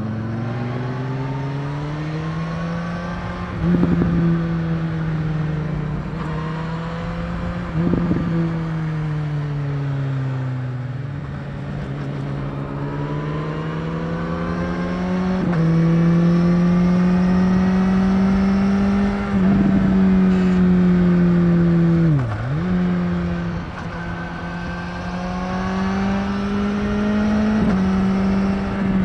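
BMW S1000R's 999 cc inline-four engine heard on board while riding, its revs climbing, levelling and dropping back several times, with a quick sharp dip and recovery about 22 seconds in. Wind rush runs underneath.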